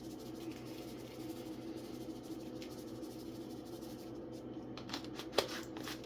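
Steady low hum, with light handling noise in the last two seconds: a few rustles and clicks, one sharp click a little past five seconds in, as seasoning is put on the chicken.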